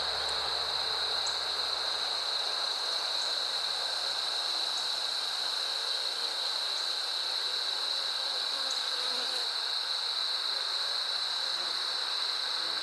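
Honey bees buzzing around an open hive under a steady, unbroken high-pitched insect drone.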